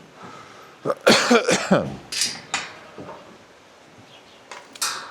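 A sheep bleats once, a wavering call of about a second that starts about a second in and falls in pitch. A few short sharp clicks or knocks follow.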